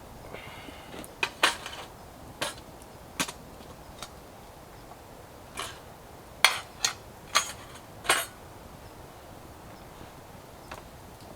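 Metal camp cookware clinking and clanking: a pot, lid and utensil knocking together in about eight sharp, separate knocks, some ringing briefly, while the stew is checked.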